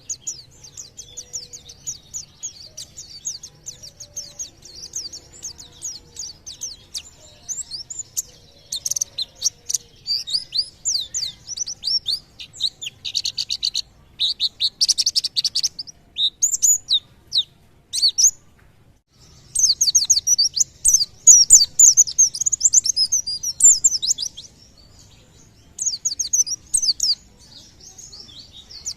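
White-eye (pleci) singing: rapid, high-pitched chirps and twittering trills in quick bursts, broken by a brief pause a little past the middle.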